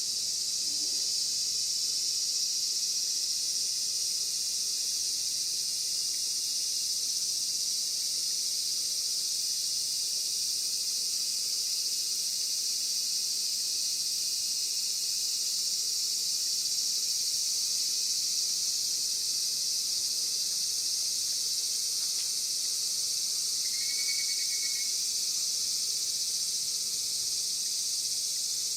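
Steady, unbroken chorus of insects: a high-pitched drone with no let-up. A single brief chirp sounds late on.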